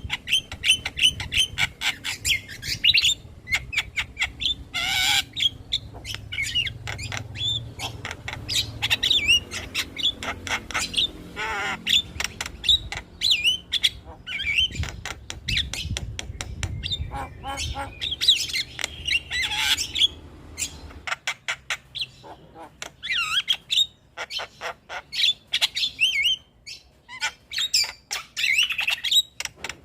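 Javan myna singing a busy, rapid medley of chattering clicks, whistled notes and harsh drawn-out squawks.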